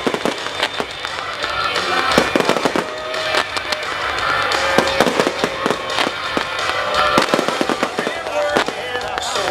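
Fireworks display: a rapid, continuous series of bursting shells and crackling bangs, with music playing alongside.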